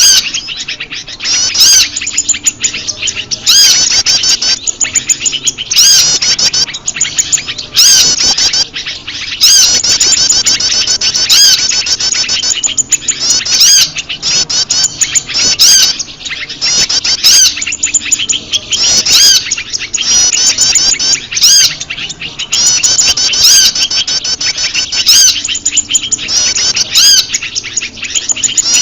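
Bird-lure recording of prenjak lumut calls mixed with a chorus of other small birds: rapid, high chirping trills that come in loud bursts about every two seconds.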